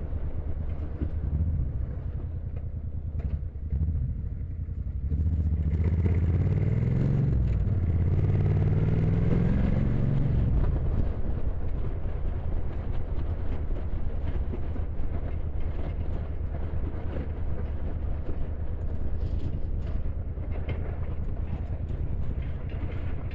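Motorcycle running at road speed with wind noise. About five seconds in, the engine note swells and its pitch glides for several seconds before settling back. A few short knocks come near the end, the kind of knocking the rider reports hearing from the bike.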